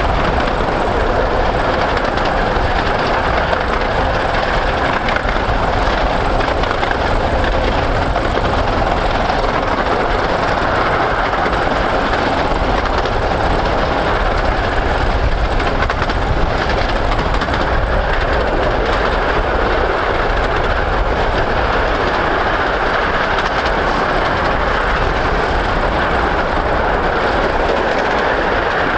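A 15-inch gauge miniature steam train of the Romney, Hythe & Dymchurch Railway running steadily along the line, its wheels rumbling on the rails.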